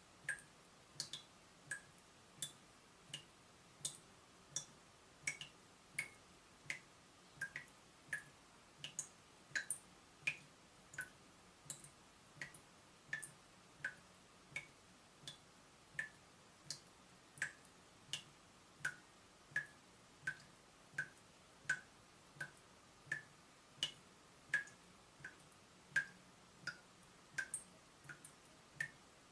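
Water dripping from a leaking tap: a steady run of short, high plinks, about three drops every two seconds.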